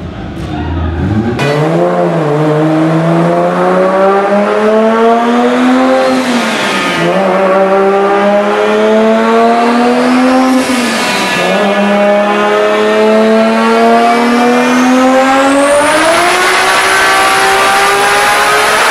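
A performance car engine accelerating hard through the gears. Its pitch climbs, drops sharply twice at upshifts, then climbs again and holds high near the end, with a high-pitched whine rising along with the revs.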